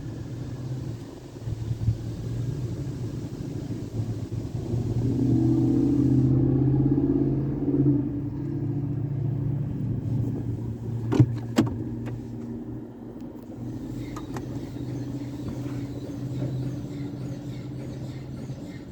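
Jim Coleman Water Wizard 1.0 automatic car wash running: a steady motor and pump hum under a water-spray hiss that cuts off about six seconds in. The hum swells in the middle, and a few sharp clicks come about eleven seconds in.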